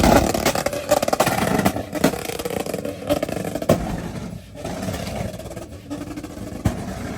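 A car engine revved hard, then running on and fading, with a few sharp cracks scattered through it.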